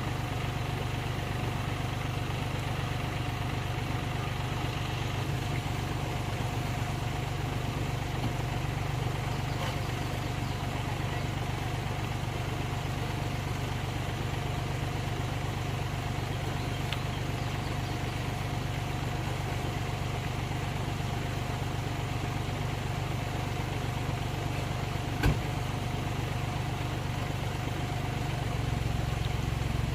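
Engine idling steadily, a low hum with a steady whine above it. A single sharp click comes near the end, and the low hum changes pitch just before the end.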